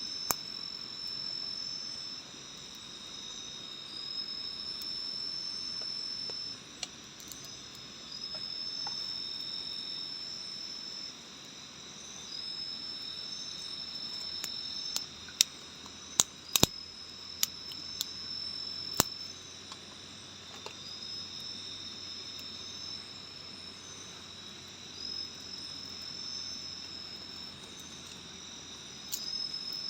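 Forest insects calling: long high trills of about two seconds each, repeating every few seconds over a steady, slightly lower insect drone, with scattered sharp clicks.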